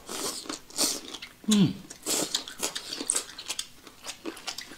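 Close-up eating sounds of boneless chicken feet being bitten and chewed: wet mouth smacks and crunchy clicks, with a short falling 'mm' hum about a second and a half in.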